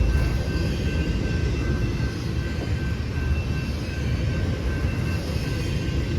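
Freight train rolling past: a steady low rumble with two faint, steady high-pitched tones above it.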